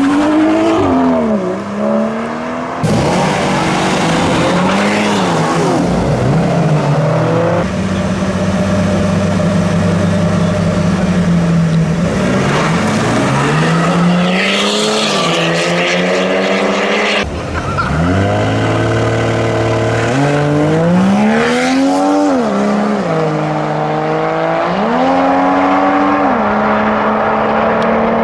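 Car engines revving hard and accelerating, their pitch climbing and dropping again and again as they pull through the gears. A few abrupt changes switch from one engine sound to another.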